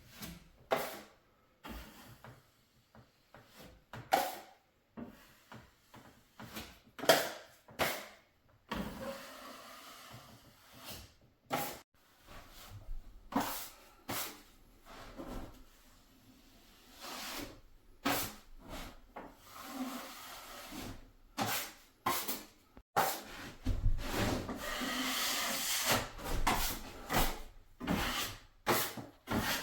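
Irregular knocks, taps and rubbing sounds of wood being handled or walked on, with a steadier rumbling noise joining in the last several seconds.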